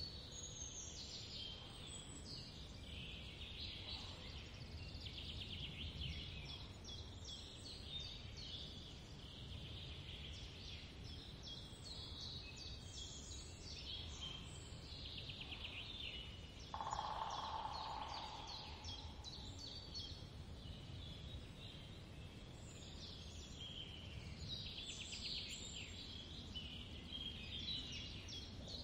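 Faint chirping and trilling of small birds, going on throughout over a low steady background hum. About two-thirds of the way in, a short burst of louder noise lasts a second or so.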